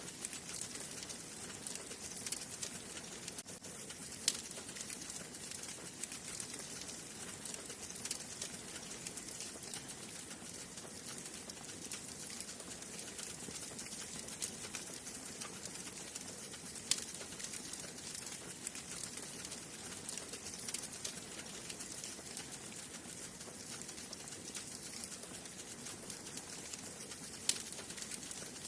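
Wood fire burning in a fireplace: a steady hiss with constant small crackles and a few louder sharp pops, one a few seconds in, one about midway and one near the end.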